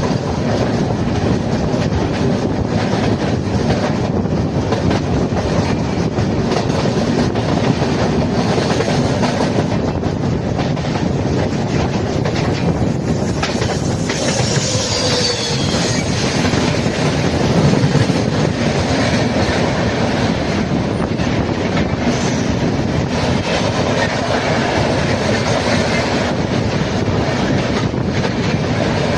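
Train running along the track: a steady loud rumble with the clickety-clack of wheels over the rail joints. A brief high-pitched wheel squeal comes about halfway through.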